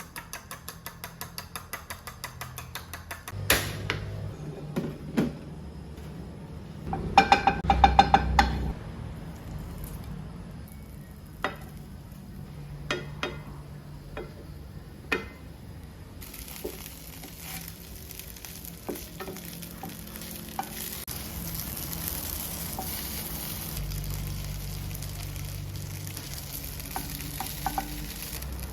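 Kitchen work at a pan: a quick run of rapid clicks, scattered knocks and a loud clatter of cookware, then food starts sizzling about halfway through and keeps frying steadily.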